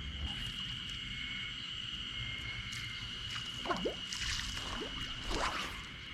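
Lake water sloshing and lapping close by, with a steady high-pitched drone throughout and a few brief swishes in the middle.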